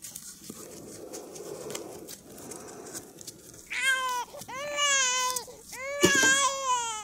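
Three long, high wailing cries in a row, each bending up and then down in pitch, starting about halfway through. Before them there is only a faint low murmur.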